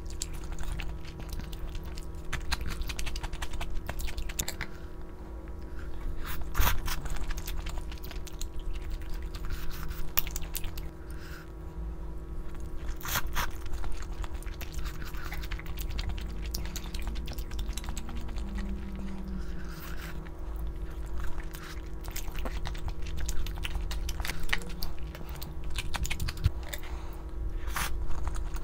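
A person chewing and biting food close to the microphone, with irregular sharp clicks and crunches, over a steady low hum.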